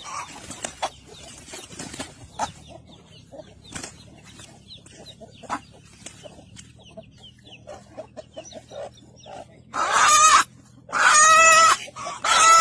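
Chickens clucking softly among small scratchy clicks, then from about ten seconds in, loud drawn-out calls, each under a second long with short gaps between.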